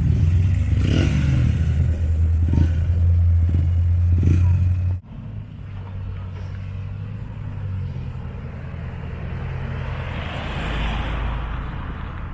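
A car engine rumbling at low revs, with a few short throttle blips. It cuts off abruptly about five seconds in. A quieter engine sound follows, swelling and fading again near the end.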